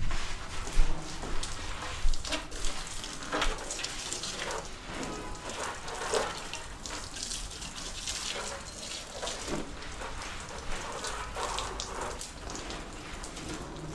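Water dripping and splashing in irregular drops, with a few louder splashes in the first few seconds.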